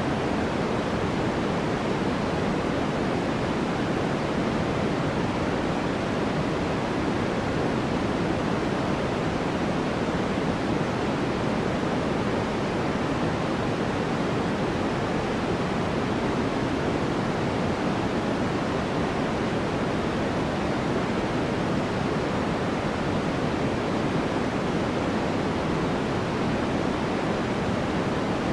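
Steady, unchanging electronic white noise: an even hiss with no events in it, weighted toward the low and middle range so it sounds darker than a bright hiss.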